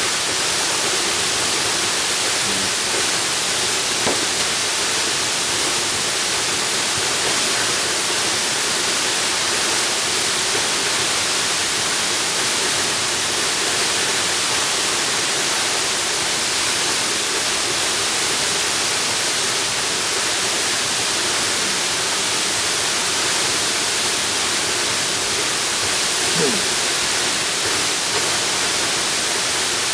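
Jungle waterfall: a steady, even rush of falling water.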